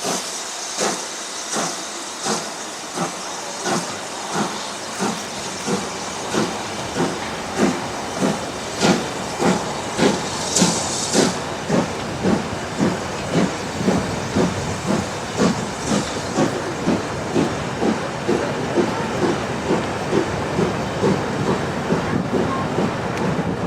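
BR Standard Class 7 'Britannia' two-cylinder steam locomotive working hard, its chuffing exhaust beats quickening steadily and growing louder toward the middle. A brief high hiss of steam comes about halfway.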